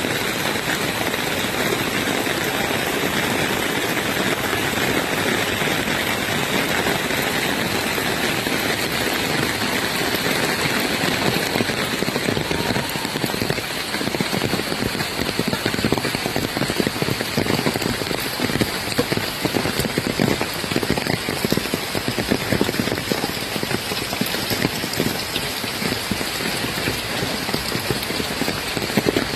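Steady rain falling, a continuous hiss with many individual drop hits that grow more noticeable about halfway through.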